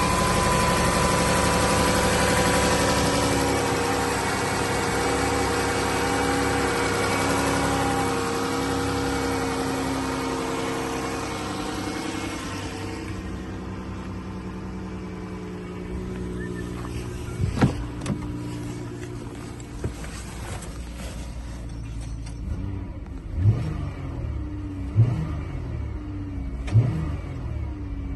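2011 Dodge Caravan engine running at a raised speed that eases slowly for the first dozen seconds, then settling to a quieter idle. Near the end come several short throttle blips, one every second and a half or so.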